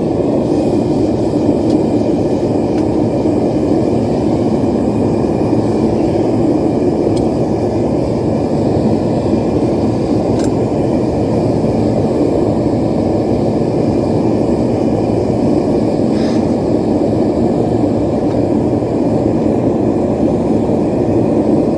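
Propane forge burner running: a loud, steady rush that holds even and unchanged throughout.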